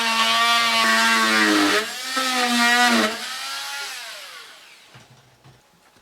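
Electric power tool motor running with a steady whine whose pitch sags briefly twice, as if under load. About three seconds in it is switched off and winds down with a falling pitch, leaving only a few small clicks.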